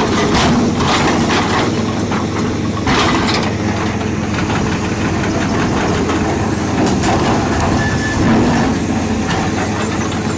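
Heavy vehicle's diesel engine running steadily, with bursts of noise soon after the start and again about three seconds in.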